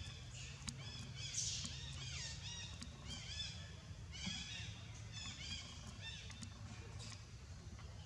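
Birds chirping: short, high, falling notes repeated many times, over a steady low rumble.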